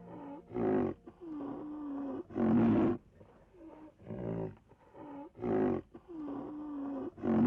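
A big cat roaring and growling. Loud calls come about every two to three seconds, with quieter, drawn-out calls in between.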